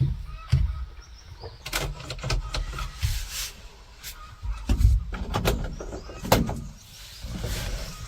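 Irregular metal clunks and knocks, several sharp, over low thumps, from the body and doors of a rusted old vehicle being handled.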